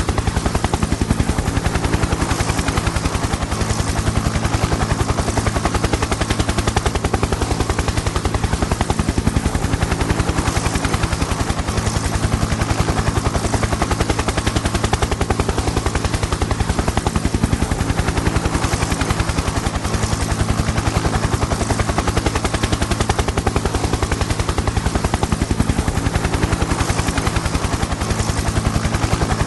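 Helicopter in flight: the rotor blades beat in a fast, even chop over steady engine noise.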